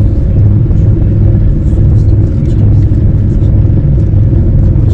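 Passenger train running at speed, heard from inside the carriage as a loud, steady low rumble with faint light rattles.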